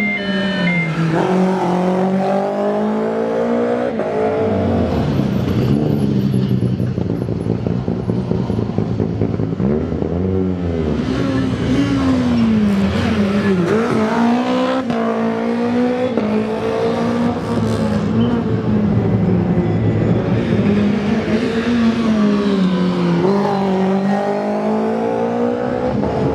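Prepared rally car engines run hard through the gears. The engine note climbs and drops several times as the cars accelerate, shift and pass.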